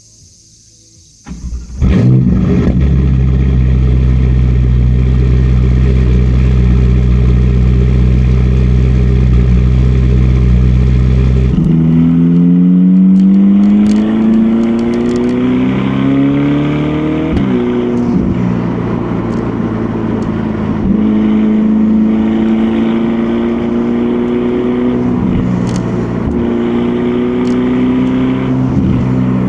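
Ferrari Portofino's twin-turbo V8 on its stock exhaust starting up about a second and a half in, then idling steadily. About twelve seconds in it pulls away, the note rising steeply under acceleration until an upshift drops it, then climbing more gently through further gears.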